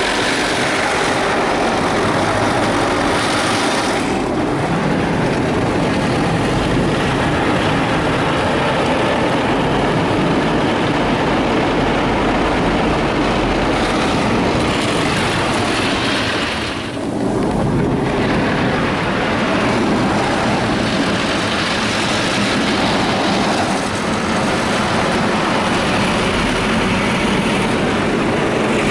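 Strong jets of water from an automatic car wash spraying onto the car's roof and sunroof, heard from inside the cabin as a loud, steady rushing hiss. The spray dips briefly about halfway through.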